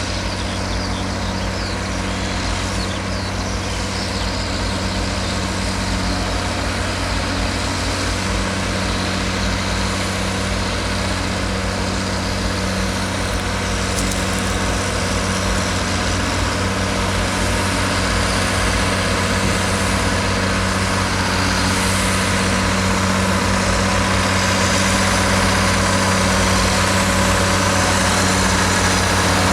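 A heavy diesel engine running steadily at constant speed, a low even hum that slowly grows louder.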